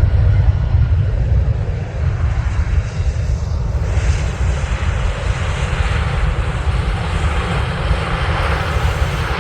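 Jet airliner on final approach passing low overhead: a steady deep rumble, with the rushing jet-engine noise growing louder about four seconds in.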